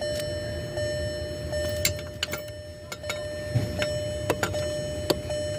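Scattered light clicks and knocks of hand work on car steering-column parts, over a steady low hum with a constant whine.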